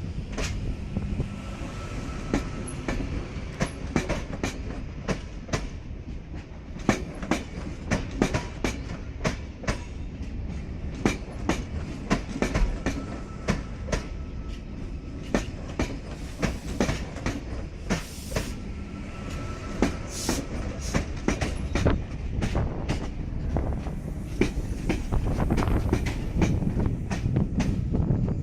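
Passenger train rolling slowly through the station, its wheels clicking over rail joints and pointwork in an irregular clickety-clack over a steady low rumble, growing somewhat louder near the end.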